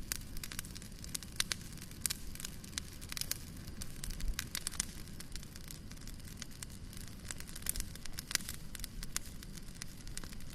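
Fire crackling in a fireplace: frequent irregular sharp pops and snaps over a low steady rumble.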